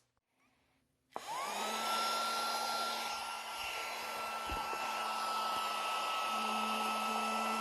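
Miniature handheld dustbuster-style vacuum switched on about a second in: its small motor spins up quickly to a steady high whine with a rush of air, running on steadily.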